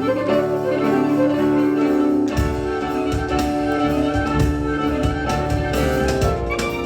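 Live instrumental music led by a bowed violin holding sustained melodic notes; about two seconds in a deeper bass part with rhythmic strokes joins.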